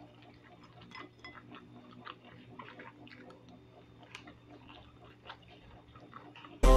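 Faint chewing of a mouthful of dumpling, with soft mouth noises and small clicks of chopsticks. Loud music cuts in at the very end.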